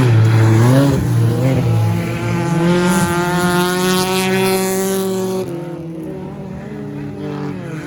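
Stock car engines racing around the track, revving up and down as cars pass; one engine holds a steady high note for a couple of seconds before the sound drops away about five and a half seconds in.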